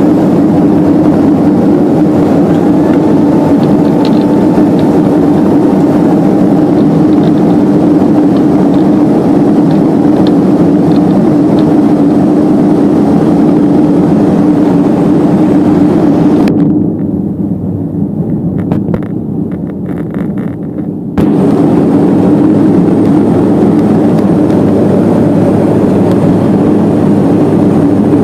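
Steady cabin noise of a turboprop airliner's engines and propellers, a loud roar with a steady hum. For about four seconds past the middle it turns muffled and quieter, then comes back at full level.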